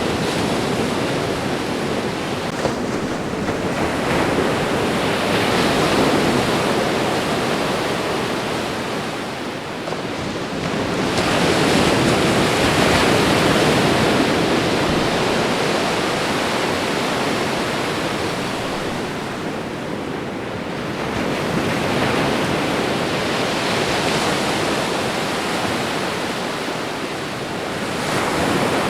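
Ocean waves washing onto the shore, a continuous surf that swells and falls back every several seconds.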